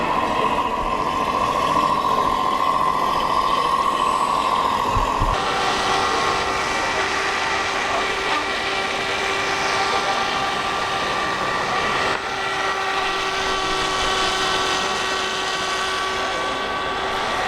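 Steady mechanical hum made of several held tones, which changes abruptly about five seconds in to a different steady drone.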